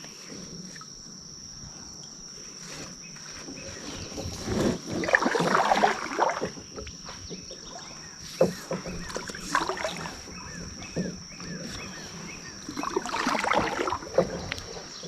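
Kayak paddle strokes dipping and splashing in the water in two spells, about five and thirteen seconds in, with a few light knocks between, over a steady high-pitched insect drone.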